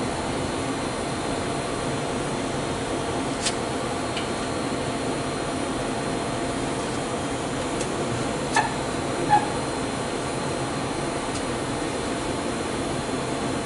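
Steady whirring hum of shop machinery or a fan, with three light knocks about three and a half, eight and a half and nine seconds in.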